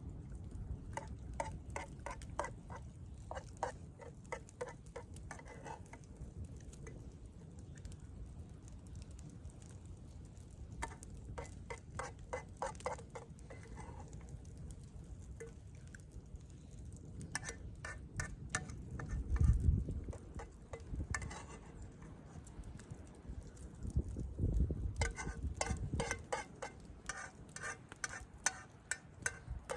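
A spoon scraping and clicking against a dish while eating, in quick runs of light strokes separated by pauses, with a low rumble swelling twice, about two-thirds of the way in and again a few seconds later.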